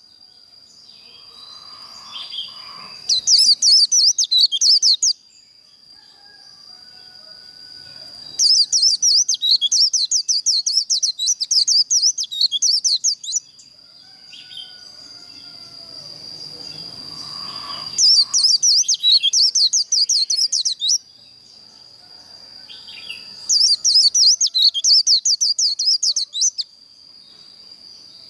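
White-eye singing its rapid 'líu' contest song: four bursts of fast, high, warbled trills, each two to five seconds long, with quieter chirps between them. A thin steady high whine runs underneath throughout.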